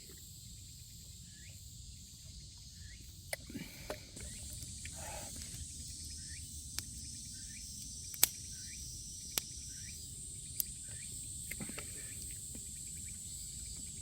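Insects, crickets among them, chirping steadily, with a handful of sharp clicks scattered through the stretch.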